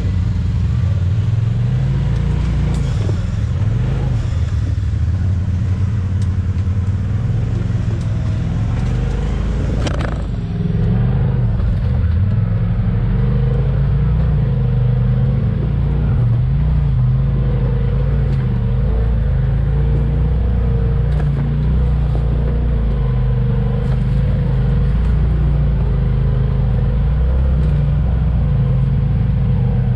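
Side-by-side UTV engine running steadily while driving on an off-road trail, a low drone with a single knock about ten seconds in.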